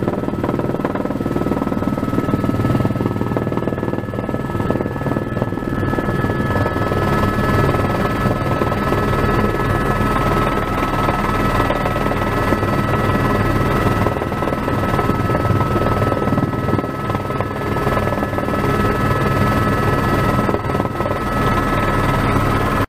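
Airbus AS350 Squirrel helicopter heard from inside the cabin as it comes in to land: a steady high turbine whine over a loud low rotor drone. It cuts off suddenly at the end.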